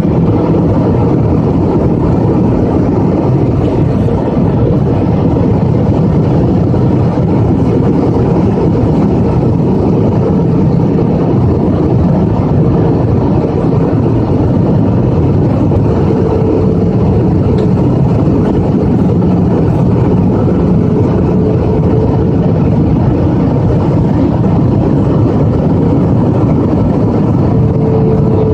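Airliner cabin noise during descent: the engines and rushing air heard from a passenger seat, loud and steady, with a faint hum that drifts slightly lower in pitch.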